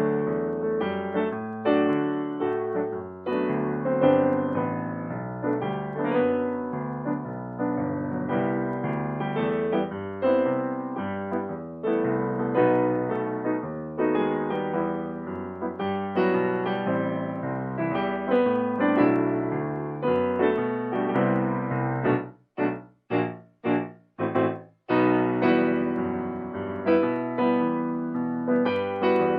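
Solo piano playing a pop-song arrangement as background music. About three quarters of the way through, it cuts out briefly four or five times in quick succession.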